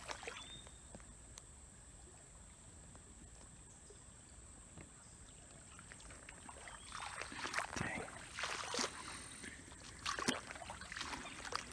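Quiet creek-side ambience with a faint steady high tone. From about halfway come irregular rustles and clicks of someone moving about in the creek bed.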